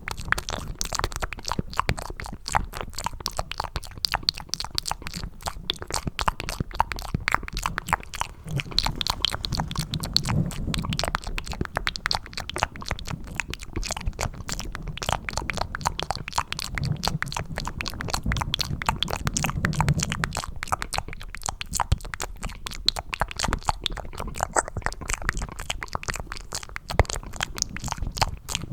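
Cupped ASMR mouth sounds made close to the microphone: wet, sticky clicking and smacking meant to sound like mac and cheese, in a dense, unbroken stream. A lower sound joins the clicks around ten seconds in and again near twenty seconds.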